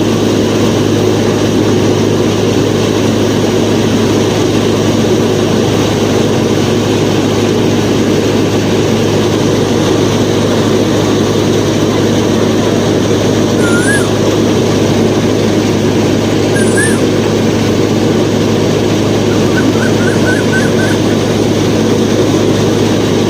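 A homemade miniature thresher machine runs with a steady, loud mechanical drone that holds even throughout and cuts off suddenly at the end. Two brief high chirps sound over it partway through, followed by a short quick run of ticks.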